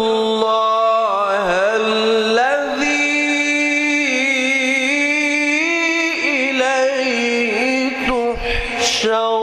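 A man's voice in melodic Quran recitation (tajweed), drawing out long ornamented notes with a wavering, gliding pitch. There is a short break about eight seconds in, then the voice goes on.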